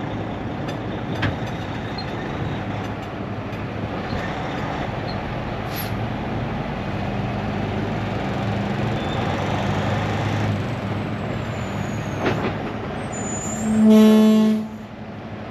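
Semi truck's diesel engine and road noise while driving, with a single horn toot of about a second near the end, the loudest sound.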